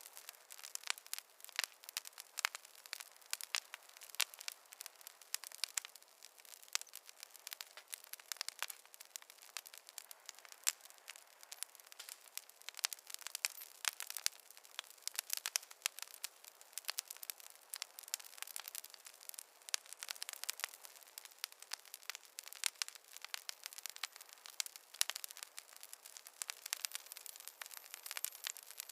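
A fireplace fire crackling, with frequent irregular pops and snaps over a soft hiss.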